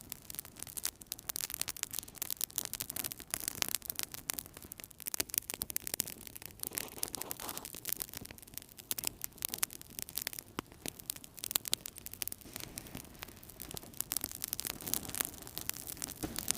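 Wood fire crackling in a fireplace: dense, irregular small pops and snaps over a soft steady hiss.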